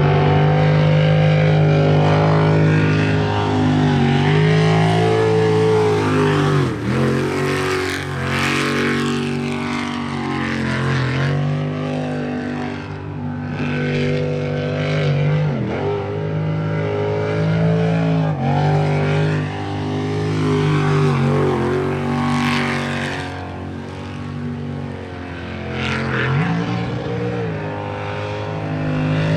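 Jet sprint boat's engine running hard through a timed run, repeatedly dropping and climbing back in pitch every few seconds.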